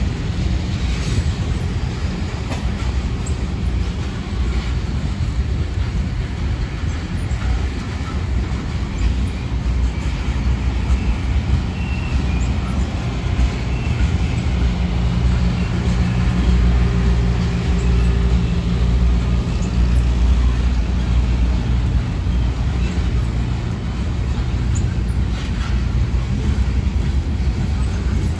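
Union Pacific freight train rolling past: a steady low rumble of wheels on rail, with a few faint, brief high squeals from the wheels.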